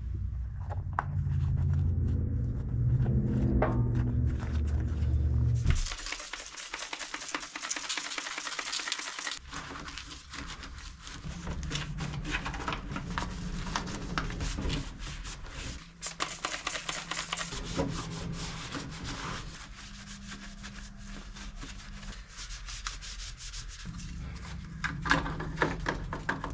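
Rubbing and scrubbing on the lawn tractor's body while cleaning and polishing it: a scratchy sound made of many short strokes. A low hum runs for the first six seconds before the rubbing starts.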